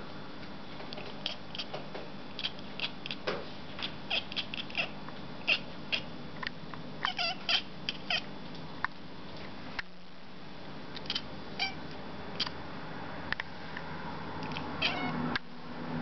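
A domestic cat chattering at a bird: irregular runs of short, sharp, high clicks and chirps, several a second at times, over a steady low hum.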